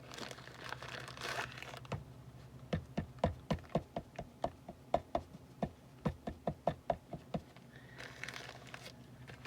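Cardstock rustling as it is handled, then a run of light, quick taps, about four a second for several seconds, then more rustling of paper.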